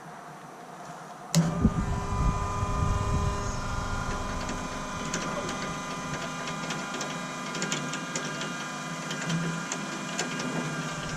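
Battery-powered transfer pump on a 100-gallon fuel tank switching on with a click about a second in, then running steadily with a whine as it pumps fuel into a 220-gallon tank.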